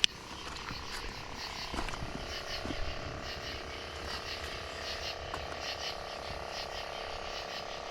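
Frogs calling in a steady chorus: short calls repeating several times a second over a layer of held, trilling tones. A single sharp click at the very start.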